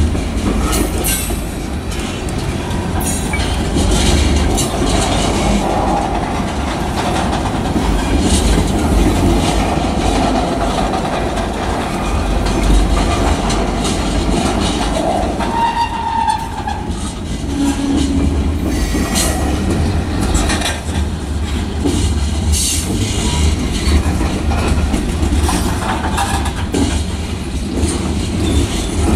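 Freight cars of a manifest train, covered hoppers and boxcars, rolling steadily past with wheels rumbling and clattering over the rail joints, with a few brief squeals from the wheels.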